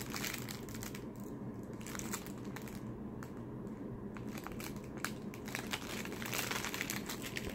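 Snack packaging crinkling and rustling in irregular crackles as packaged snacks are handled and taken out of a box.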